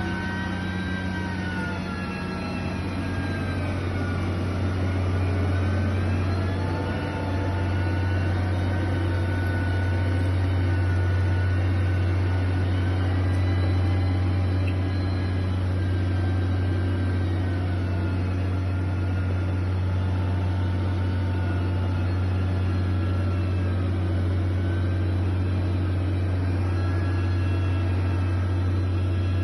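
Heavy construction machine's engine running steadily, with a low hum and a higher whine that rises and falls slowly.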